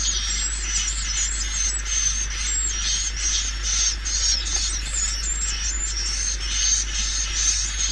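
Swiftlet call recording: dense, continuous twittering and chirping of swiftlets, many short high calls overlapping, over a steady low hum. This is the kind of lure sound played through tweeters to attract swiftlets into a bird house.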